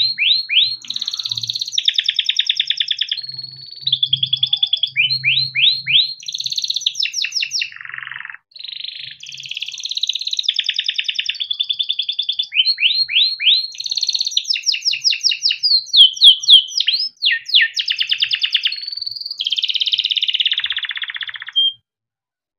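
Yellow canary singing a long, continuous song of fast trills, rapid rolls and rising sweeps. It stops abruptly near the end.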